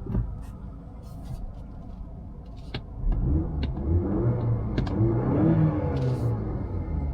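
Mazda CX-5's 2.5-litre four-cylinder petrol engine starting about three seconds in and running at a fast, unsteady idle, heard from inside the cabin, after a few sharp clicks.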